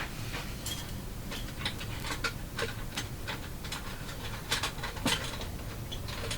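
Small tools and objects being handled and set down on a workbench: a string of irregular light clicks, taps and rustles.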